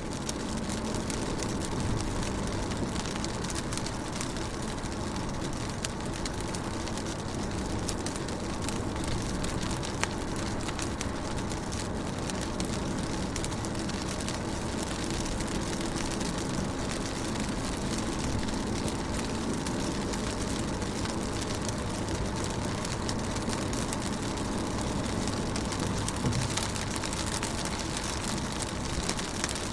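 Rain falling steadily on a car's windows and roof: a continuous patter of many small drop taps, with a low steady hum underneath.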